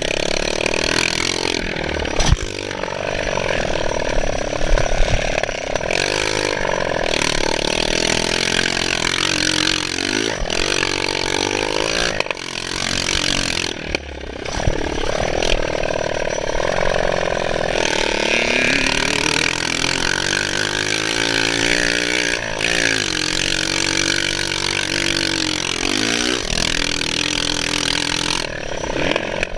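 Motocross bike engine being ridden, revving up and dropping back over and over so that its pitch keeps climbing and falling.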